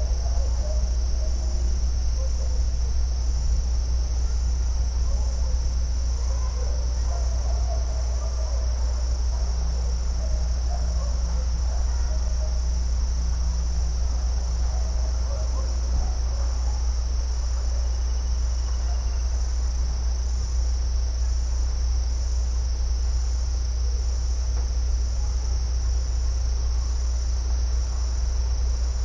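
A steady, continuous high-pitched trill of crickets over a constant low rumble, with faint scattered chirps in between.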